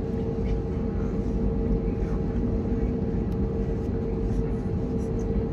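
Airbus A321neo cabin noise with the CFM LEAP-1A engines running: a steady deep rumble with a constant whine over it.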